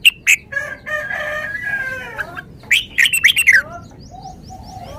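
Red-whiskered bulbul singing short, sharp whistled phrases, the loudest near the start and again just past halfway. A rooster crows a long call between them, about a second in, and small high chirps follow near the end.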